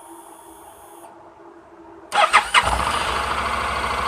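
Honda NC700X's parallel-twin engine starting about two seconds in, with a brief rising whine as it catches, then running steadily.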